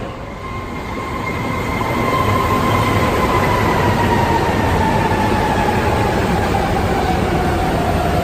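Subway train running with a loud, steady rumble that builds about two seconds in, and over it a whine that slowly falls in pitch.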